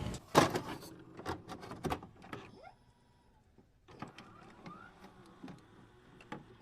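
A short sound-effect clip made of a run of quick sharp clicks and knocks, with a pause of about a second in the middle before more clicks follow.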